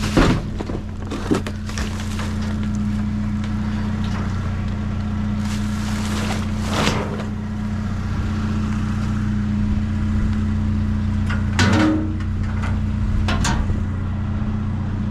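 A steady low mechanical hum, like an idling engine, runs throughout. Over it come scattered rustles and knocks of trash and boxes being moved around in a dumpster, the loudest about a second before the end and near the very end.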